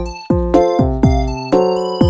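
Background music: an electronic track with a steady kick-drum beat, about two beats a second, under sustained keyboard chords.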